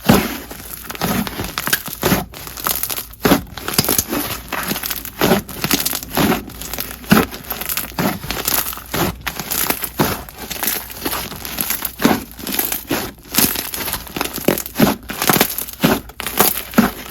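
Hands squishing, stretching and poking a fluffy cloud cream slime (orange jelly slime mixed with clay): a dense, irregular stream of sticky crackles and small pops.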